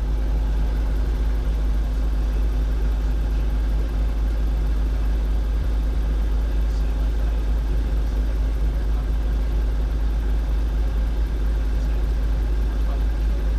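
Robinson R22 helicopter running: a steady, unchanging engine and rotor drone with a constant low hum and a few steady tones above it.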